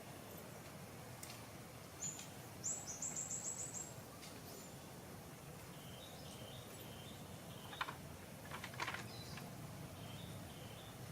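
Birds calling over a steady background hiss: a rapid high trill of about eight notes some two seconds in, then short repeated chirps through the second half, with a few sharp clicks near the end.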